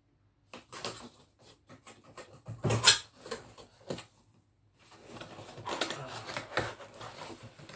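Cardboard laptop box being opened by hand: scattered taps and scrapes with one sharper knock about three seconds in, then a longer stretch of cardboard rubbing and scraping as the lid flap is worked open.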